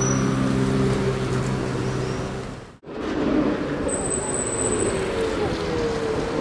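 Ferrari 458's V8 engine running at low, steady revs as the car rounds the hairpin. The sound cuts off abruptly about three seconds in, and then another 458 is heard approaching, its engine note gliding slowly near the end.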